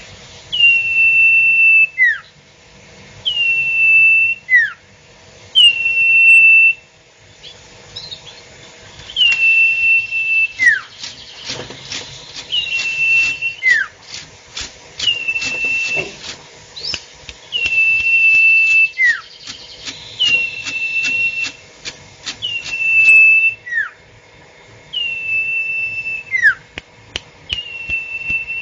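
Sirtu bird calling over and over without pause: each call is a held, clear, whistled note about a second long, followed by a short falling note, about eleven calls repeated roughly every two and a half seconds. A fast ticking runs behind the calls through the middle stretch.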